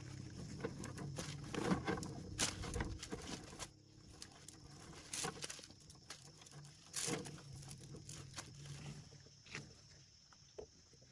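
Scattered light knocks and clicks over a low hum. The hum stops about three and a half seconds in, and a faint steady high tone runs underneath throughout.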